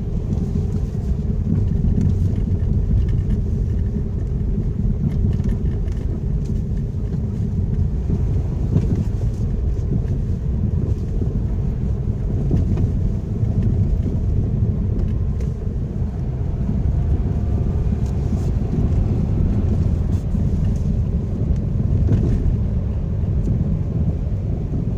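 Lada Vesta Cross driving over a rough, bumpy road: a steady low rumble of tyres and suspension with faint scattered knocks. The owner takes the knocking for a fault in the new car's suspension.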